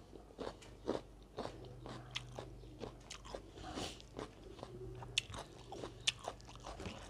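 Close-miked eating: crunchy chewing of raw cucumber, with irregular sharp mouth clicks and smacks while rice and curry are eaten by hand. A faint low hum comes in twice in the background.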